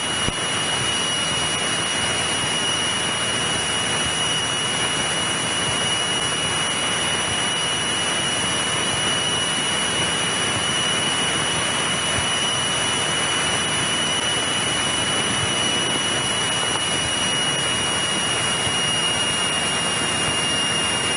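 Steady in-flight cockpit noise of a 1963 Cessna 172E: the drone of its Continental O-300-D engine and the rush of the slipstream. It has an even hiss with a thin steady high whine running through it.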